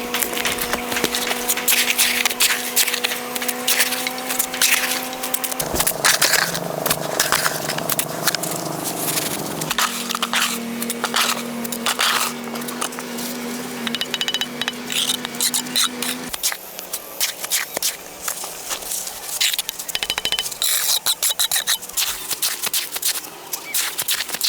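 Rapid clicking and scraping of hand work over a steady hum, whose pitch changes abruptly a few times.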